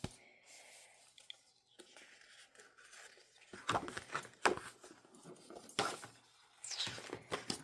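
Paper and packaging being handled: after a quiet stretch, a series of short rustles and crinkles about three and a half seconds in, as a desk calendar is unwrapped and opened.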